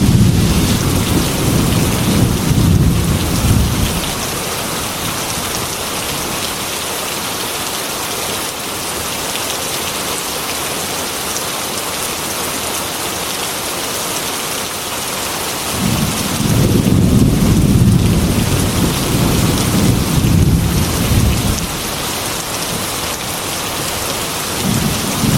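Heavy rain pouring steadily, with deep thunder rumbling through the first few seconds, again for about five seconds from roughly sixteen seconds in, and starting once more near the end.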